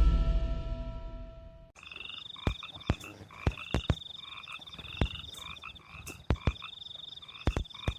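Intro music fades out in the first couple of seconds, then a night chorus of rice-paddy frogs calling over and over, with a steady pulsing high insect trill behind them. About a dozen sharp clicks or knocks are scattered through it and are the loudest sounds.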